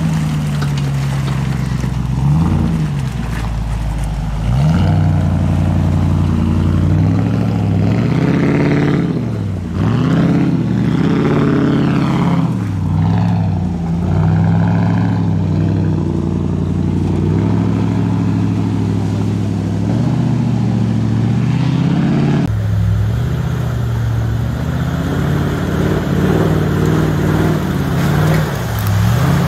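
Land Rover Discovery's V8, with a tuned camshaft and remapped, revving up and dropping back again and again under load as the truck pushes through deep mud. The engine note changes abruptly about two-thirds through.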